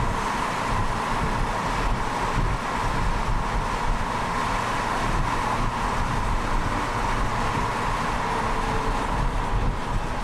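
A car driving, with steady road and wind noise over a low rumble.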